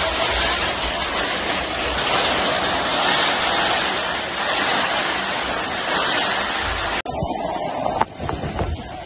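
Torrential rain pouring down in a steady, loud rush. About seven seconds in it cuts abruptly to a quieter stretch of rain, with wind gusting on the microphone.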